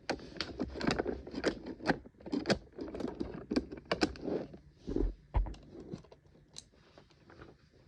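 Handling noise from a model train locomotive being turned over and searched: irregular small clicks, taps and rattles that thin out over the last couple of seconds, with a dull thump about five seconds in.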